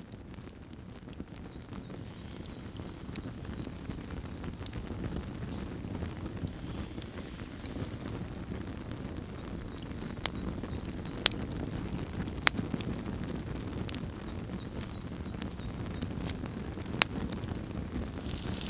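Wood campfire burning: a low steady rumble that slowly grows louder, with sharp pops and crackles every second or so.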